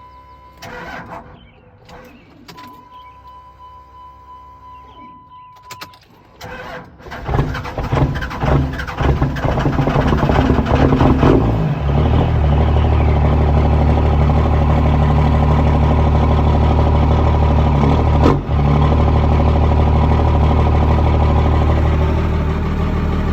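Steady electronic dash chime tone, then a 24-valve Cummins 5.9 L inline-six diesel with a P7100 (P-pump) injection pump cranking and firing up from cold about seven seconds in. It runs rough and uneven for a few seconds, then settles into a loud, steady, deep idle.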